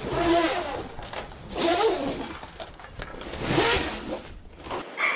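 A farm animal calling three times, each call short and wavering, about a second and a half apart.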